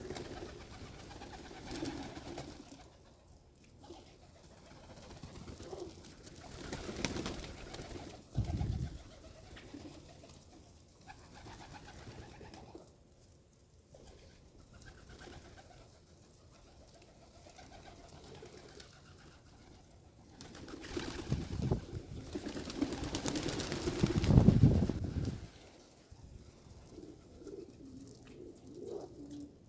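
Pigeons cooing, soft low coos repeating through, with a louder rushing noise lasting a few seconds about three-quarters of the way in.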